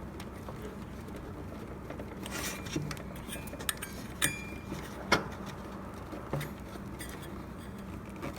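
Scattered light clicks and taps of hands working a hose onto its fitting inside an espresso machine's housing, over a low steady hum.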